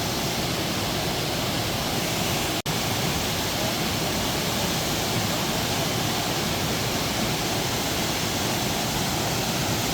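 Kagumo waterfall's water falling, a steady even rush. It drops out for an instant about two and a half seconds in.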